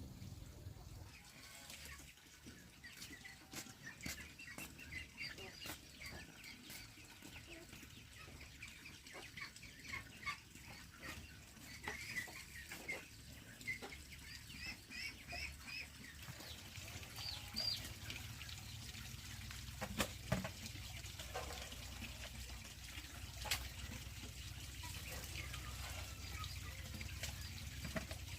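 Chickens calling in a run of short, high peeps and clucks through the first half or so, with scattered sharp clicks and knocks throughout.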